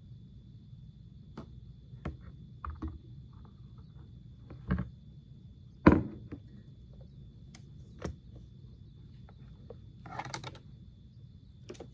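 Scattered light knocks and clicks of objects being handled on a table, with one louder knock about six seconds in and a brief rustle near ten seconds, over a low steady hum.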